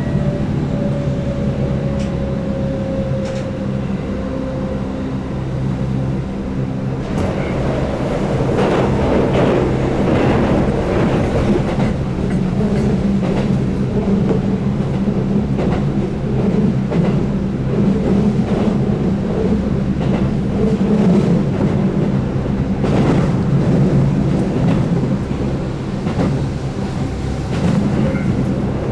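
Keihan 8000 series electric train running at speed, heard from inside the car: a steady hum from its DC traction motors under field-added excitation control, with a faint falling whine in the first few seconds. Wheels click over rail joints, frequently from about seven seconds in.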